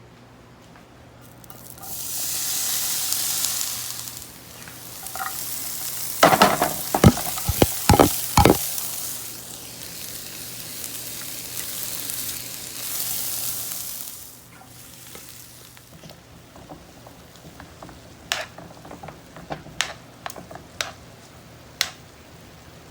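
Food sizzling in a frying pan, with a cluster of loud knocks of a utensil against the pan partway through. The sizzle fades out past the middle, leaving a quieter stretch of scattered light clinks of utensils.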